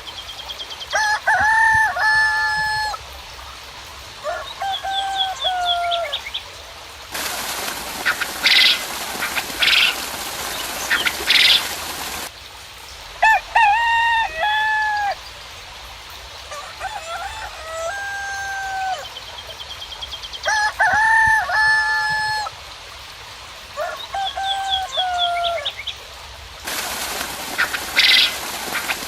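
Roosters crowing again and again, each crow a run of short notes, with small birds chirping and trilling high above. Twice a steady hiss of rain cuts in abruptly, and short high bird calls sound through it.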